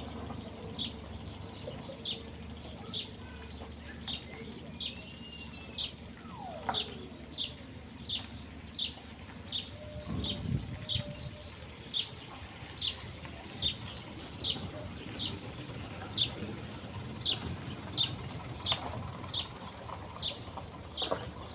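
A bird repeating a single short, high chirp at an even pace of about once a second, over a low steady background hum. A different call, sliding down in pitch, comes once about a third of the way through.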